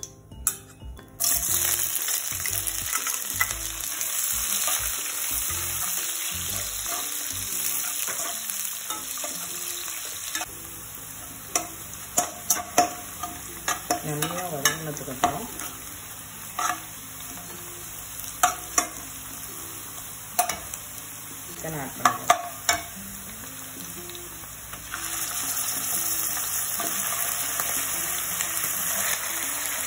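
Sliced onions hit hot oil about a second in and set off a loud, steady sizzle. Through the middle a metal spatula scrapes and clinks against the pan as the onions are stirred, and near the end the sizzle grows louder again as raw chicken pieces go into the oil.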